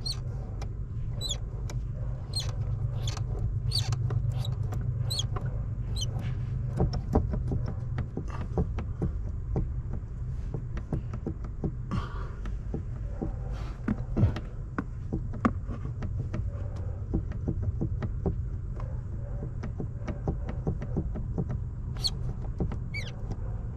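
Many small, sharp metallic clicks and clinks of hand tools being handled, scattered over a steady low hum.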